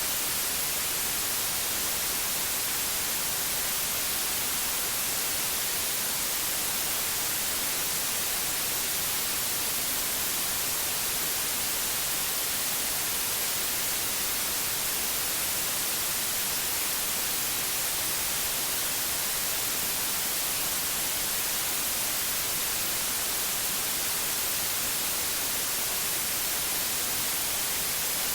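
Pure white noise: a steady, even hiss spread across the whole range, strongest in the high frequencies, unchanging.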